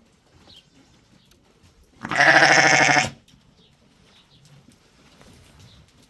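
Small livestock bleating once, loudly, for about a second about two seconds in, the call quavering throughout.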